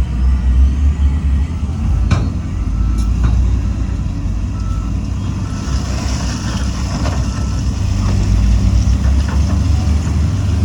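Heavy diesel earthmoving machinery, a dump truck and bulldozer, running with a deep, steady engine rumble. A sharp knock comes about two seconds in, and a hiss joins about halfway through.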